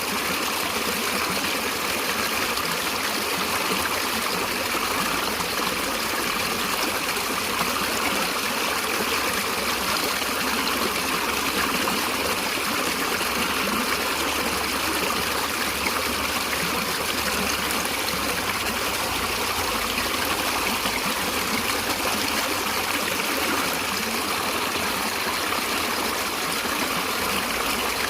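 Natural running water, a stream flowing steadily with an even rushing sound that does not change.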